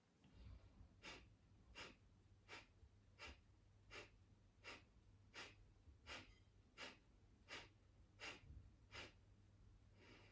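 Kapalabhati breathing: a series of about a dozen short, sharp exhales forced out through the nose by abdominal contractions, evenly spaced at roughly three every two seconds. The exhales are faint.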